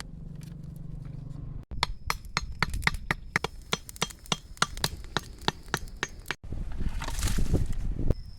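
Rapid chopping strokes, about four a second, each a sharp knock, stopping abruptly. Then a louder rushing hiss lasts just under two seconds.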